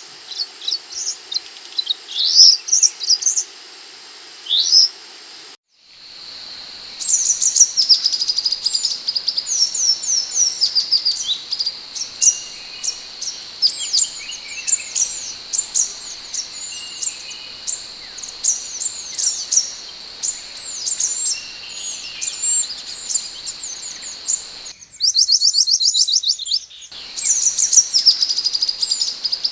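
Scarlet minivet (mantenan / sepah hutan) calling, with rapid strings of high-pitched chirps and short slurred whistles. The calling breaks off briefly near six seconds, then comes back denser.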